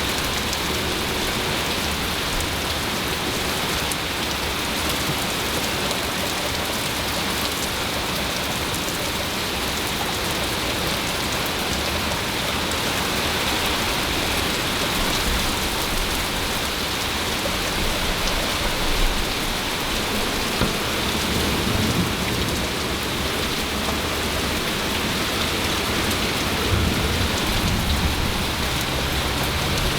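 Steady thunderstorm rain, with low rumbles of thunder in the second half.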